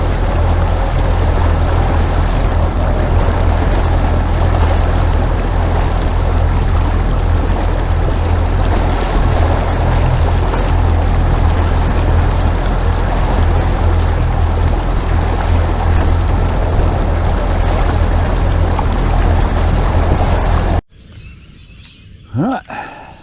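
Boat's outboard motor running steadily under way, with a low hum beneath a rush of wind and water. It cuts off abruptly near the end, leaving quieter open-air background with a few short chirps.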